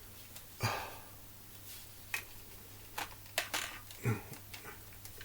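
Clicks and knocks of plastic BB gun parts being handled and tried against each other, a scattering of separate taps with the loudest about half a second in, over a low steady hum.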